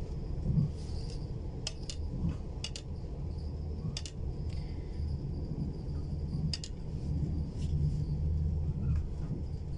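Steady low rumble of a passenger train running at speed, heard from inside the carriage, with a few sharp clicks.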